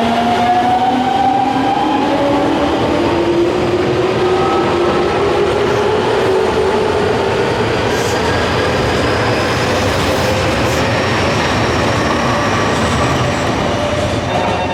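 Nankai electric train pulling out and accelerating, its traction motors giving a whine that rises slowly in pitch over loud wheel and rail noise.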